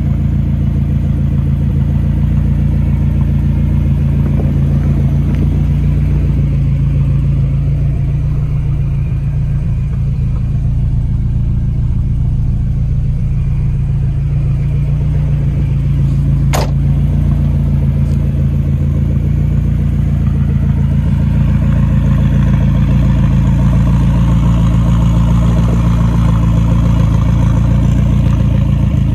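Lotus Esprit V8 Twin Turbo's 3.5-litre twin-turbocharged V8 idling steadily, a little louder and brighter in the last third. A single sharp click about halfway through.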